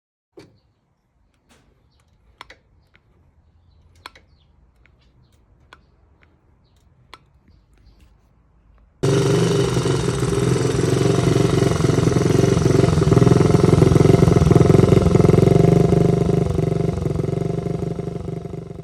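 A few faint scattered clicks, then about halfway through the small single-cylinder engine of a Honda C110 Sports Cub–based street racer comes in abruptly, running loud and steady, and eases off slightly near the end.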